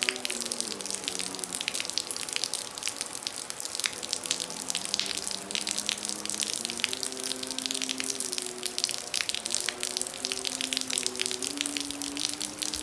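Heavy rain pouring steadily, a dense patter of countless drops and splashes. Underneath it a slow, soft melody of long held notes keeps stepping from pitch to pitch.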